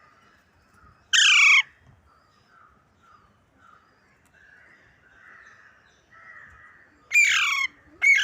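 Parrot giving loud, harsh squawks, each falling in pitch: one about a second in, then two close together near the end, with faint chirping in between.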